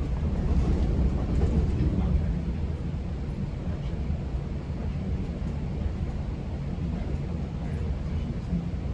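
Steady low rumble of a GO Transit commuter train running along the track, heard from inside a passenger coach; slightly louder in the first couple of seconds.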